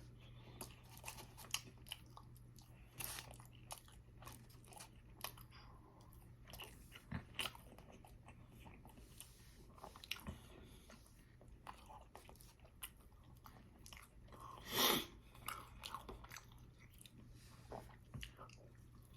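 Close-up mouth sounds of chewing a greasy bacon cheeseburger: wet smacking and small crackly crunches at an irregular pace. One louder, longer noise comes about fifteen seconds in.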